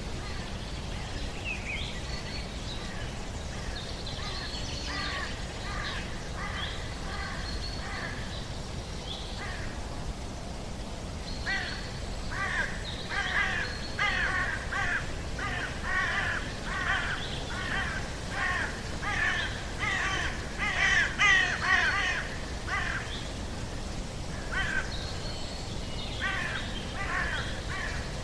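Birds giving long series of short, harsh, repeated calls, at first scattered, then faster and louder at about two calls a second through the middle, over a steady low rumble.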